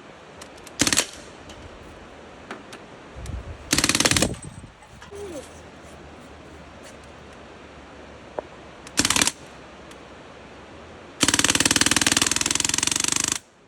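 A gun on full auto firing rapid bursts: three short bursts, then a longer burst of about two seconds near the end.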